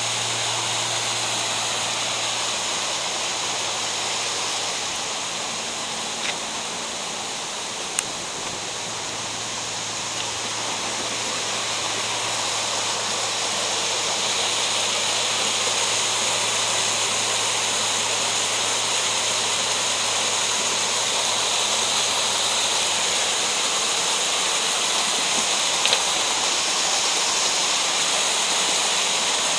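Mountain stream rushing steadily through a rocky gorge. A low steady drone underneath fades out about three-quarters of the way through, and there are a few faint clicks.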